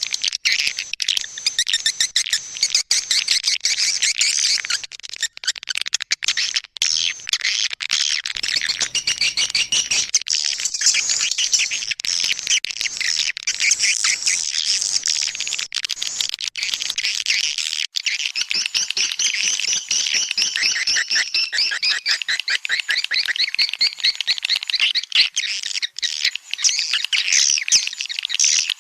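Swiftlet call-sound recording used to lure swiftlets into a nesting house: a dense, continuous chatter of high-pitched twittering chirps, with runs of fast, evenly repeated trills in the second half.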